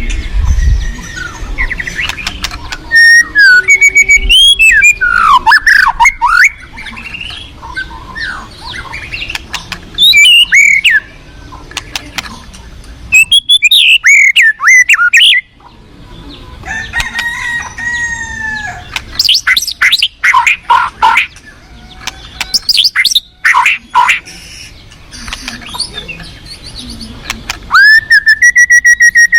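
White-rumped shama (murai batu) singing. Loud, varied phrases of whistles, rapid trills and sweeping notes come in bursts a few seconds apart.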